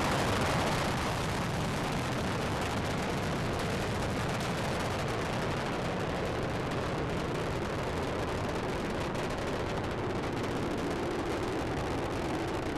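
Steady rumble of Space Shuttle Discovery's rocket engines, its solid rocket boosters and main engines, during ascent shortly after liftoff.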